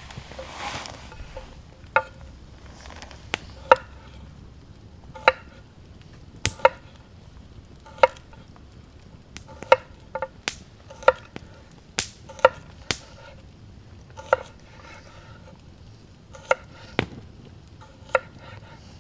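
Knife chopping on a cutting board: single sharp knocks, irregular, roughly one a second, each with a brief ringing tone.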